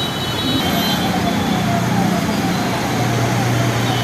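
An emergency vehicle's siren in a fast yelp, a falling wail repeating about twice a second, over the steady low drone of engines in slow road traffic. A vehicle horn sounds briefly at the start.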